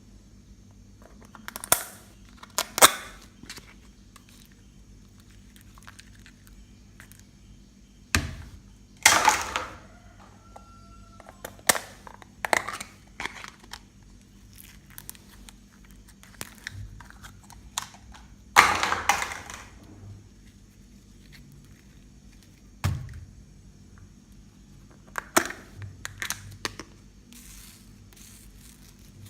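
Homemade slime being handled and mixed by hand: irregular crackling pops and squelches, with longer, louder bursts about nine and nineteen seconds in.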